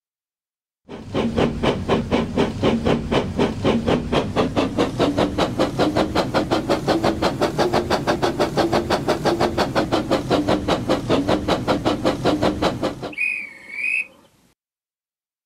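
Steam train sound: rapid, even chuffing at about four puffs a second, then a short wavering whistle near the end that cuts off suddenly.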